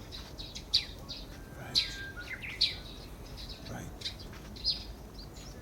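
Wild birds chirping in forest: short, sharp calls that slide down in pitch, repeating about once a second.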